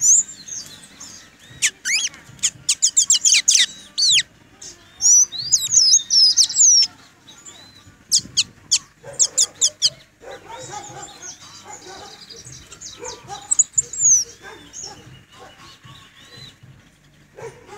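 Caged pet bird singing: rapid runs of sharp high chirps and quick whistled sweeps. About ten seconds in, these give way to softer, lower warbling chatter, with a few more high whistles.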